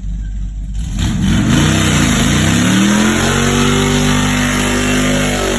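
Go-kart's small engine revving: the pitch rises and dips twice in the first two seconds, then climbs and holds steady at high revs.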